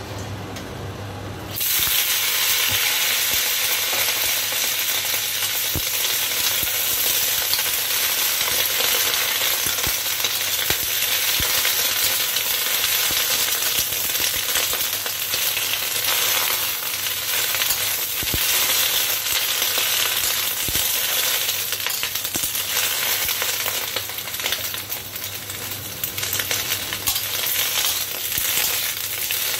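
Cabbage leaves frying in hot oil in a wok: a sudden loud sizzle starts about a second and a half in as the cabbage goes into the oil, and keeps up as the leaves are tossed and stirred, with scattered clicks.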